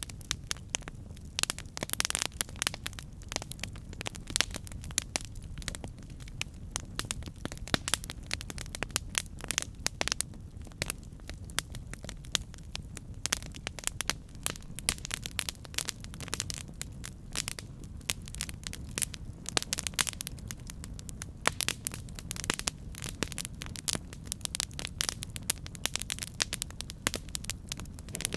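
Campfire burning: wood crackling and popping in rapid, irregular snaps over a low steady rumble of flames.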